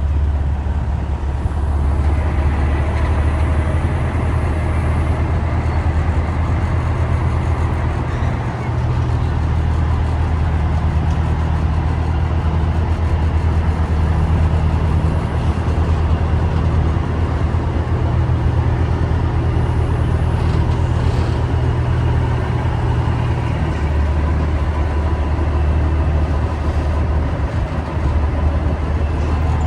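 Semi-truck engine running with a steady low drone that shifts in pitch a couple of times.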